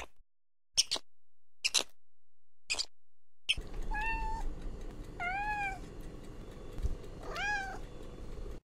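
Domestic cat meowing three times, each meow about half a second long and arching up and down in pitch, over a low steady background. Before the meows, a few very short, sharp squeaky calls come about once a second.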